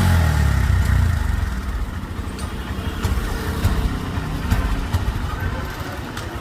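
Honda SP125's single-cylinder engine running unevenly with a misfire; the bike's malfunction light was on with a random misfire code. The mechanic traces the fault to a faulty adapter connector. The engine is loudest in the first second or so, then settles a little lower.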